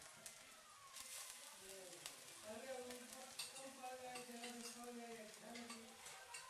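Chopped onion and garlic frying in oil in a pan: a faint, steady sizzle with scattered small crackles and pops.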